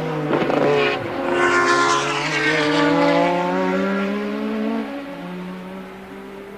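Formula One race car engines at high revs, the pitch sliding down and then climbing slowly as the cars change speed, with a short hiss about a second in. The sound fades over the last couple of seconds.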